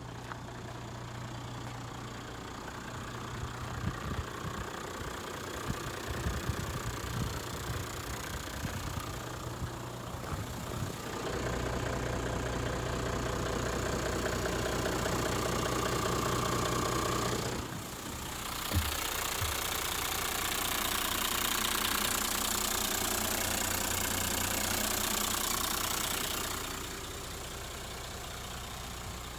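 Hino Liesse II's 1HD-FTE 4.2-litre straight-six turbodiesel idling, then held at raised revs twice, with a brief drop back between, before settling back to idle near the end.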